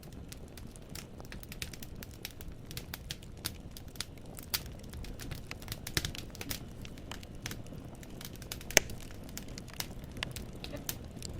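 Wood fire in a fireplace crackling: logs pop and snap irregularly over a low steady hiss of burning, with one sharp, louder pop about nine seconds in.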